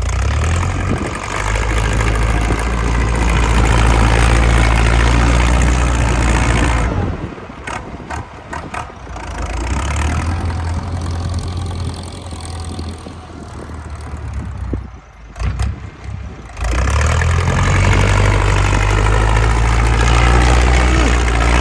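Ford 6640 tractor's diesel engine with a loud exhaust, running hard under load while pushing soil. It eases off for several seconds about seven seconds in, then pulls hard again from about sixteen seconds.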